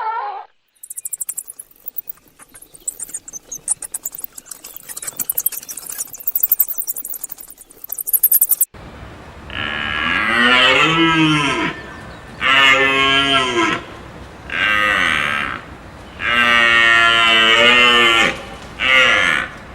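Cattle mooing: a series of five calls of a second or two each, starting about halfway in. Before them there are several seconds of dense crackling and clicking.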